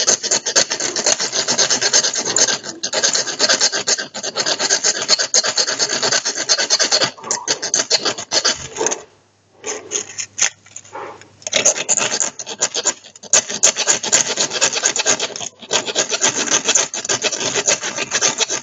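A steel striker scraped rapidly and over and over along a ferrocerium rod (fire steel), throwing sparks to light tinder. There is a short break about nine seconds in.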